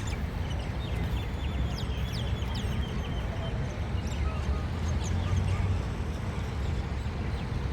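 A flock of gulls calling: many short, overlapping cries throughout, over a steady low rumble.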